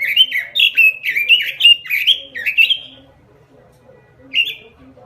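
Pekin robin (red-billed leiothrix) singing a fast run of sharply rising whistled notes, about four a second for some three seconds, then one more short phrase near the end.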